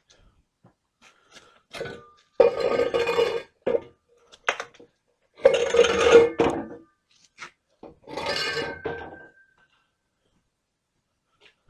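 Used muffler and exhaust pipe being pushed under a truck, scraping and clanking along the floor in three pushes of about a second each, with small metal knocks between them.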